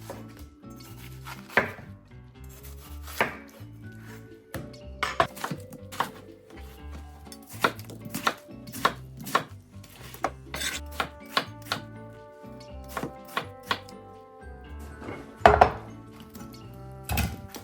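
Irregular knocks, taps and clacks of kitchen items and containers being handled and set down, some hits much louder than others, over soft background music.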